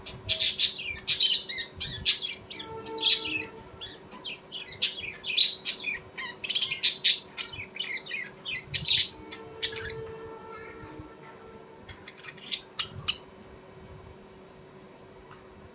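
Small birds chirping and tweeting in quick, busy runs, thinning out after about nine seconds, with a last short cluster of chirps about three-quarters of the way through.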